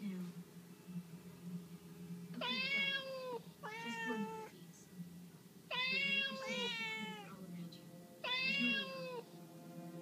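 Domestic cat meowing five times, each meow under a second long with the pitch rising then falling, two of them close together in the middle.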